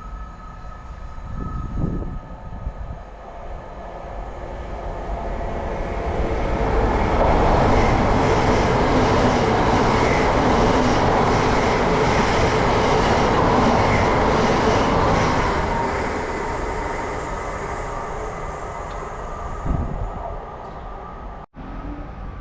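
A train passing through the station: the rumble of wheels on rail builds over a few seconds, runs at its loudest for about eight seconds, then fades away.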